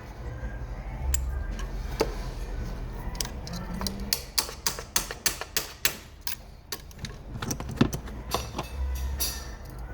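A quick, irregular run of sharp clicks and clinks from hand tools working on the engine, several a second from about four seconds in, over background music with a steady low hum.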